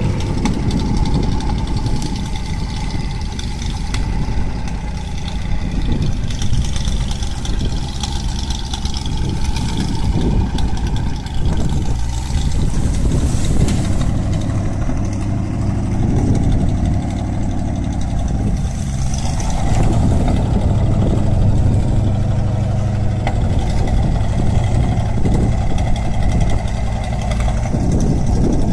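An engine running steadily at low speed.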